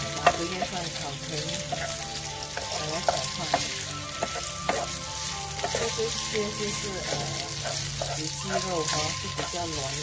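Diced marinated pork, garlic and shallots sizzling in a nonstick frying pan while being stir-fried with a wooden spatula, with a few sharp knocks of the spatula against the pan.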